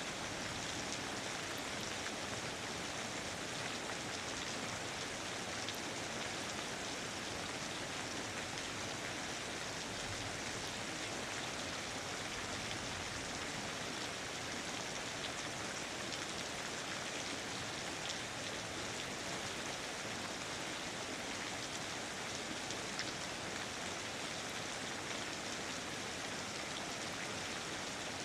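Steady rain falling, an even hiss of many drops with faint patter.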